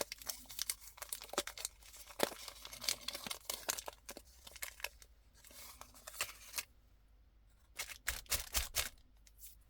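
Plastic candy wrappers and packaging crinkling and rustling as they are handled, in dense crackles for about six and a half seconds, then a short pause and another spell of crinkling.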